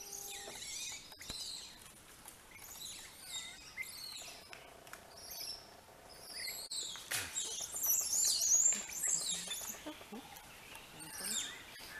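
Songbirds chirping and twittering in high, quick calls, busiest and loudest from about seven to nine seconds in.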